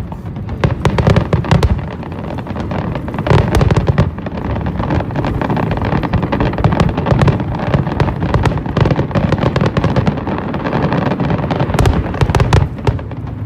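Aerial fireworks display: dense crackling and popping shells over a steady low rumble of booms, with heavier salvos about a second in and again near the end.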